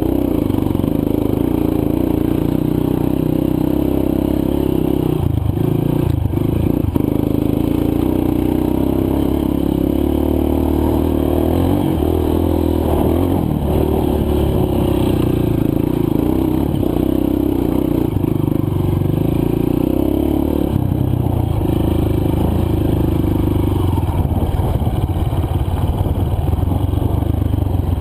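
Dirt bike's four-stroke single-cylinder engine running on a trail, throttle rising and falling with a few brief lifts off the gas, over a clatter and scrape of loose rocks and the bike's chassis.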